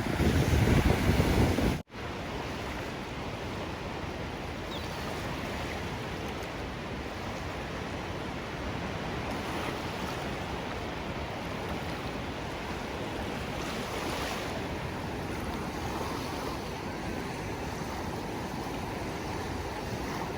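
Ocean surf washing steadily. About two seconds in, a louder, deeper stretch cuts off sharply in a brief dropout, and a quieter, even wash of surf follows.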